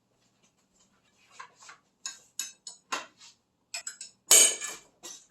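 Hand ratchet clicking in a handful of uneven ticks, then a loud metallic bang about four seconds in as the ratchet gives way under breaker-bar force, followed by a few smaller knocks.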